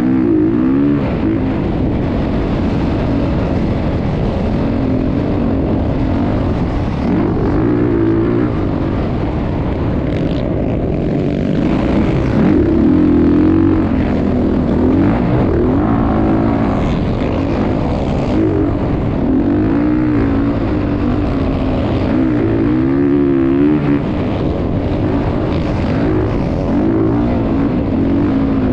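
Motocross bike engine running hard, its pitch rising and falling over and over as it revs up and eases off.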